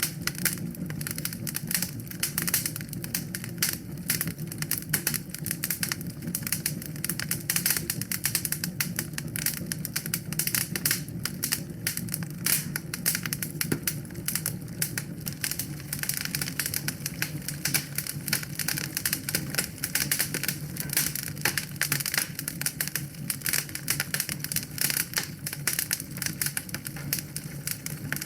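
Wood fire in a fireplace crackling, with many rapid irregular pops and snaps over a steady low rumble.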